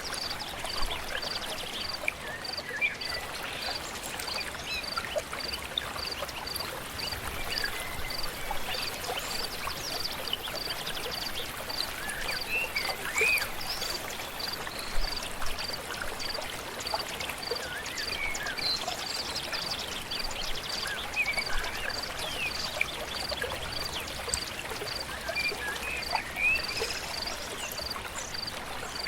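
Stream flowing steadily, with birds chirping and whistling on and off over it and a high, even call repeating about twice a second throughout.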